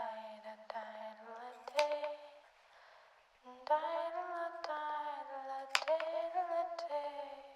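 A woman singing slowly in long held notes that glide gently up and down, in two phrases with a breath pause about two and a half seconds in.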